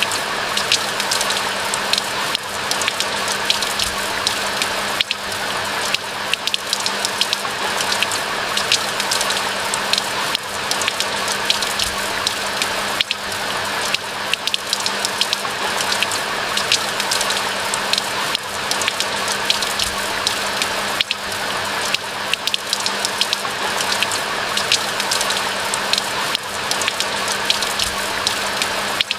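Steady rain falling in a pine forest: an even hiss thick with sharp, close drop ticks, over a faint low steady hum.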